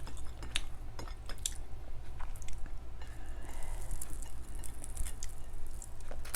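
Close-miked eating: wet chewing and mouth clicks, with a few light clinks of tableware.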